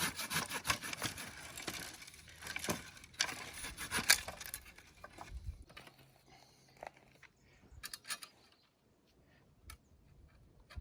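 Wood being sawn in quick rasping strokes that stop about four and a half seconds in, followed by scattered light clicks and knocks of handling.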